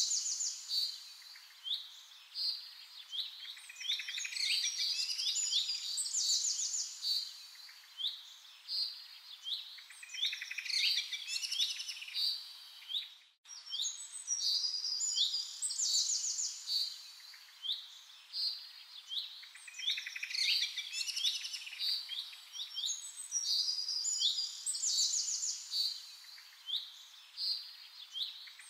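Several small songbirds chirping and singing in quick, overlapping bursts of high notes and trills, with a brief gap in the sound about halfway through.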